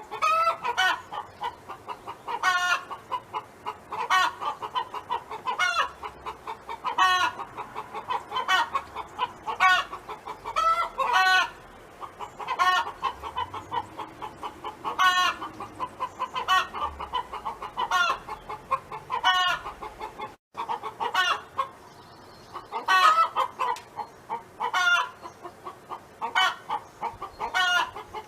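Domestic hen clucking in a steady run, with a louder drawn-out call every second or two: the hen's song. There is a brief break about twenty seconds in.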